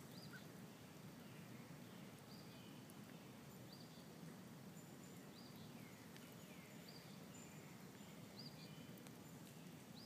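Near-silent outdoor ambience: faint low background noise with a bird repeating a short high call every second or so.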